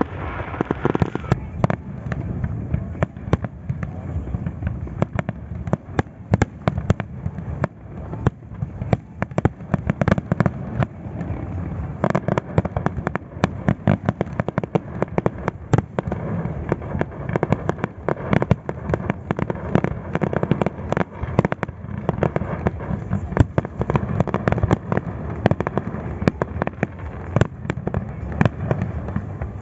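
Fireworks display: a dense, continuous run of bangs and crackles, several a second, over a low rumble.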